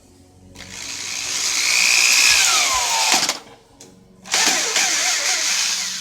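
Electric drill running in two bursts: a run of about two and a half seconds whose motor whine falls away as it stops, then after a short pause a second run to the end.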